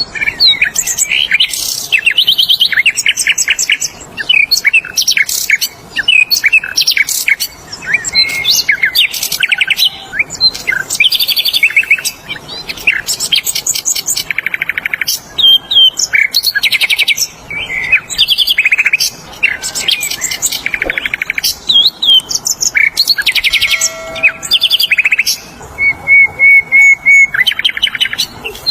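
Sikatan londo flycatcher singing loudly and busily: rapid, varied song phrases full of fast trills and high chips, repeated one after another with short pauses. Near the end comes a run of five even, lower whistled notes.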